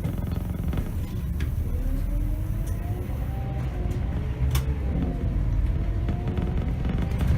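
Scania K270 bus's nine-litre five-cylinder diesel engine running under way with a heavy low rumble, a faint whine rising and falling in pitch as the bus speeds up and eases off. A sharp click about halfway through.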